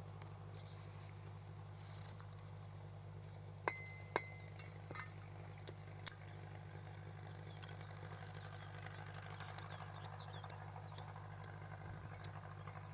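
Steady low mechanical hum. From about three and a half to six seconds in, five or six sharp clinks sound, one ringing briefly.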